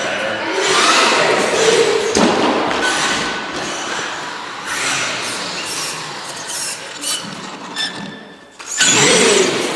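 Toy RC trucks driving: electric motors whining with a steady noise of wheels and gearing and scattered knocks. There is a short lull near the end, then a loud surge as they speed up again.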